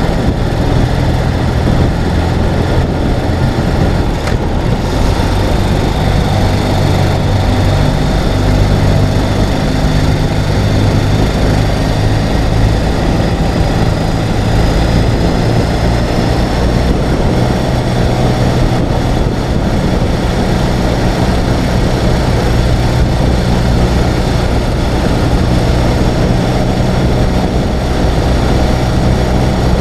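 Ural sidecar motorcycle's flat-twin engine running at a steady cruise, its pitch shifting slightly with engine speed, under a steady rush of wind noise.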